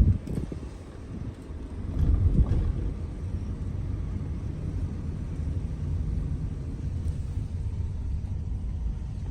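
Low, steady rumble of a vehicle travelling on the road, with louder bumps or buffets at the start and about two seconds in.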